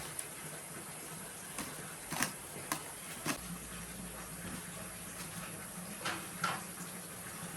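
A handful of short, sharp knocks and clicks, four close together in the first half and two more near the end, over a steady background hiss and low hum.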